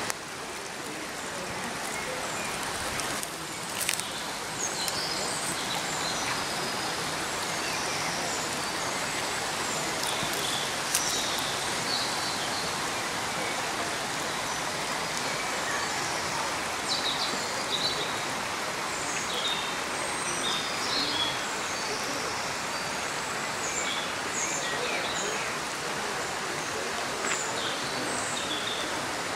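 Small birds chirping in short, scattered calls over a steady rushing background noise, with a couple of sharp clicks, one about four seconds in and one about eleven seconds in.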